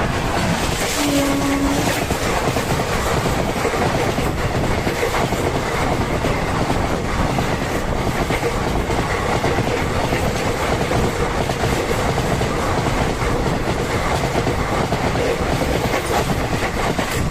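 MEMU electric passenger train running at speed, wheels clattering over the rail joints with a steady rush of running noise. A short horn note sounds about a second in.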